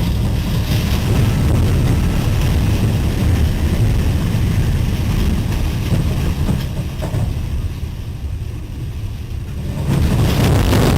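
Loud, steady low rumble of tornado wind and a train running through it. It eases for about two seconds near the end, then comes back up.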